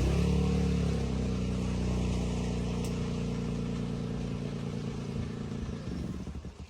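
A motor vehicle's engine running close by with a steady low drone. It comes in abruptly and dies away about six seconds in.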